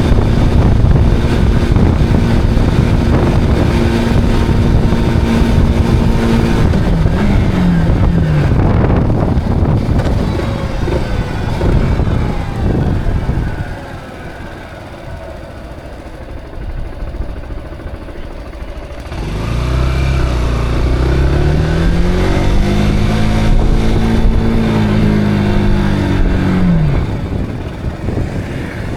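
Zontes cruiser motorcycle engine running under way, with wind and road rush on the helmet-mounted action camera. The engine holds steady at first, drops in pitch as the bike slows, and goes quieter for a few seconds. From about two-thirds of the way in it pulls away with a rising pitch, then falls off again near the end.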